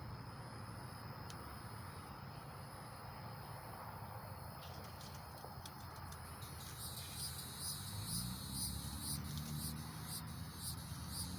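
Crickets chirping in a steady high trill, joined about seven seconds in by quick repeated chirps about twice a second.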